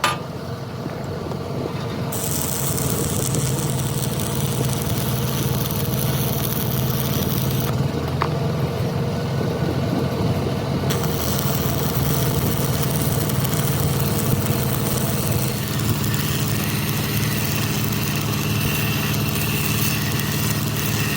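An engine running steadily, with a high hiss that comes in about two seconds in, drops out for a few seconds in the middle, and returns.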